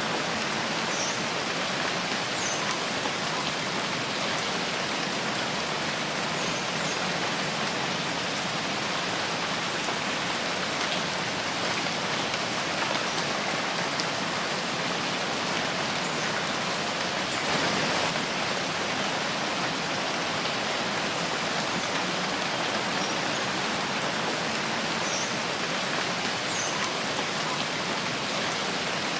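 Steady rain falling in a forest, an even hiss of drops on leaves and ground, briefly a little heavier about two-thirds of the way through.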